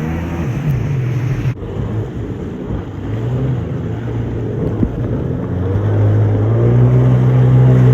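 Jet ski engine running, its pitch wandering up and down, then climbing and holding loud and steady from about six seconds in as the throttle opens. There is an abrupt break about a second and a half in.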